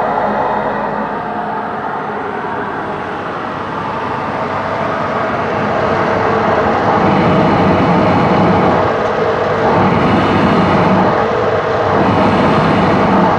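Okamoto machine tool running under a test of operation: a steady motor hum with a constant whine. It grows louder about halfway through, then swells in a low rumble roughly every two and a half seconds.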